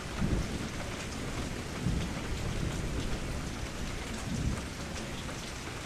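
Recorded rain ambience: an even, steady hiss of rainfall, with low rumbles swelling up briefly about two seconds in and again later on.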